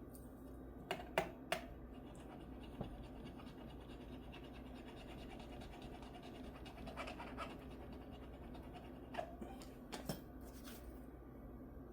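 Faint scratching and a few scattered sharp clicks from small hand work on a guitar neck, with a cluster of clicks about a second in and more near the end.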